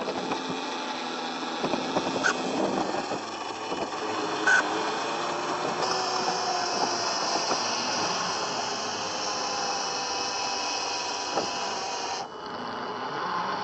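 Small electric motor and gear drive of a scale RC Land Rover Defender whining, the pitch rising and falling with the throttle, with a couple of short clicks.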